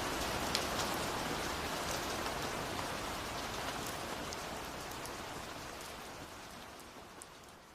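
Steady rain, with individual drops ticking sharply through the hiss, fading out gradually toward the end.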